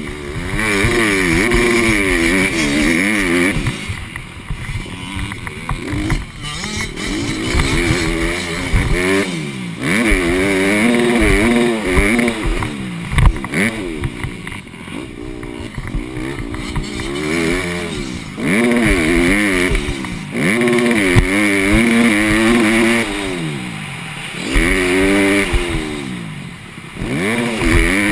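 Honda CRF150R's four-stroke single-cylinder engine, revving up hard and backing off repeatedly every few seconds as the dirt bike is ridden around a motocross track.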